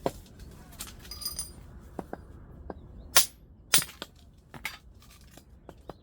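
Sharp, irregular knocks and clicks of work at a wood-burning stove, with a brief ringing metallic clink about a second in. The two loudest knocks come about three seconds in, half a second apart.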